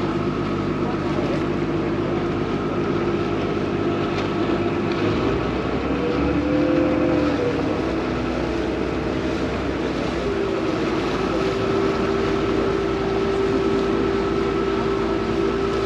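Vaporetto water bus engine running steadily under way, with a hum of several steady tones. About five seconds in the engine note shifts, one tone rising and falling back, before it settles into a new steady pitch.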